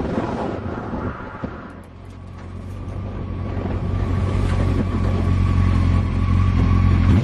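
Onboard sound of an open sports car's engine and wind rush. The sound dips about two seconds in, then builds steadily into a loud, even low drone as the car drives on.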